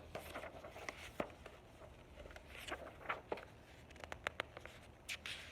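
Pages of a picture book being handled and turned: paper rustling and scraping, with a few sharp clicks around four seconds in.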